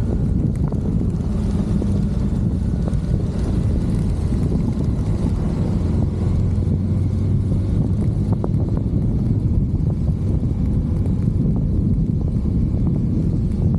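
An engine running steadily under heavy wind noise on the microphone, its low hum strengthening a little in the middle.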